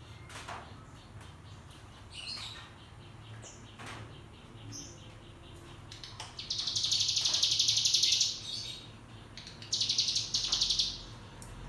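Bar-winged prinia (ciblek gunung) singing two long, rapid, buzzing trills, the 'ngebren' song, the first about six seconds in and the second shortly after, with scattered short chips before them.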